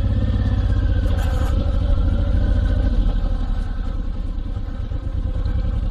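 Honda VTX1800C's big V-twin engine running steadily at low revs, a low, even pulsing throb with no revving.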